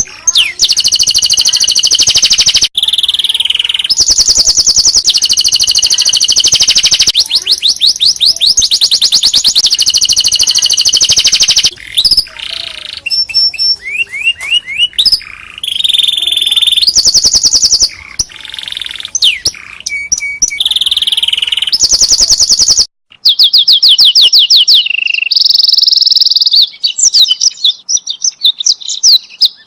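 Domestic canary singing loudly and close, a long song of rapid trills and rolling repeated phrases. It breaks off briefly about twelve seconds in and again near twenty-three seconds.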